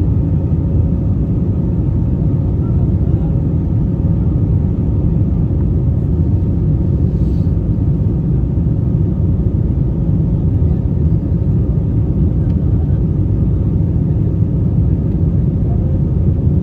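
Steady low rumble of an Airbus A320-family airliner heard from inside the cabin in flight: engine and airflow noise with a faint steady hum above it.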